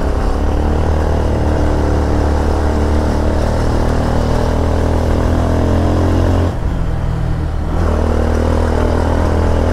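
Motorcycle engine running steadily under way, heard from the bike itself. It eases off briefly about six and a half seconds in, then picks up again.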